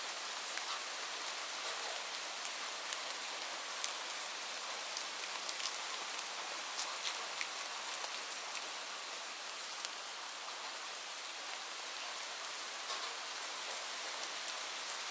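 Steady rain, a continuous hiss with many individual drops ticking sharply on a hard surface.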